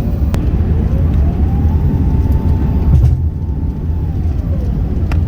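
Airbus A380 cabin noise on approach: a steady low rumble of engines and airflow. About a second in, a whine rises, holds, then falls away near the end. Two sharp clicks, one near the start and one near the end.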